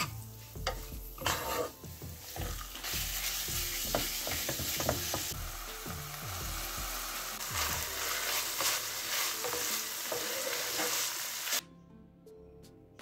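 Chopped onions and minced meat sizzling in a frying pan, with a wooden spatula scraping and stirring through them in the first seconds; the sizzle grows to a dense steady hiss and cuts off suddenly near the end.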